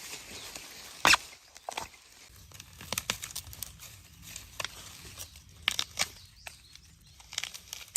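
Young bamboo shoots being snapped off by hand amid rustling stalks and leaves: scattered crisp snaps and crackles, the loudest a sharp crack about a second in.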